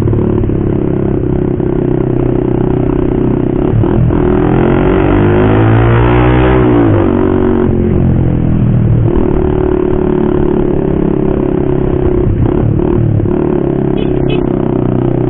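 Motorcycle with a loud aftermarket racing exhaust running under way. The engine note climbs and drops back once around the middle, then holds steady.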